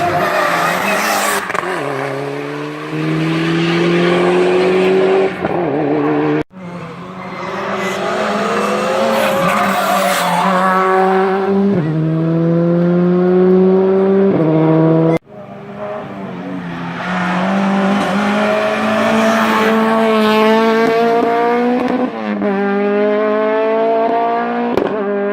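Race car engines at full throttle, each one revving up through the gears: the pitch climbs, drops back at each shift, and climbs again. The sound breaks off abruptly twice as one car gives way to the next.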